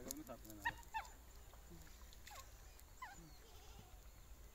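A bird calling, faint: about five short calls, each falling in pitch, spaced irregularly across a few seconds.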